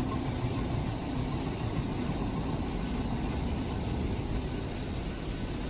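Train running, with a steady low rumble and a faint constant hum.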